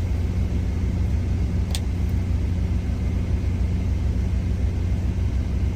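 Truck engine idling with a steady low drone, and one short click about two seconds in.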